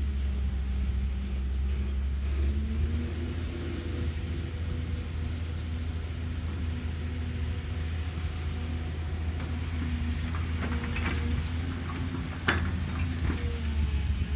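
Excavator diesel engine running steadily, its pitch shifting a little as it works, with scattered clanks and knocks in the last few seconds, the sharpest about twelve seconds in.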